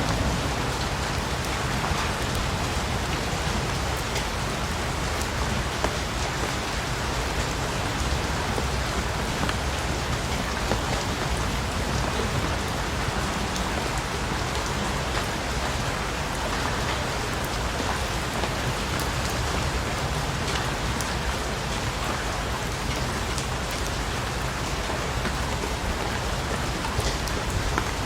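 Steady rain falling on a surface, with many small drop ticks over a constant hiss and a low rumble underneath.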